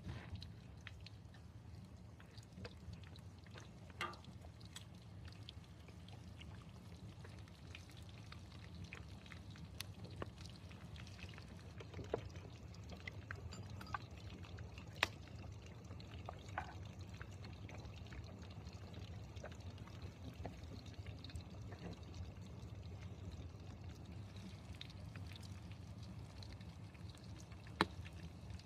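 Campfire crackling: scattered small pops and snaps over a steady low rumble, with a louder snap about 15 seconds in and another near the end.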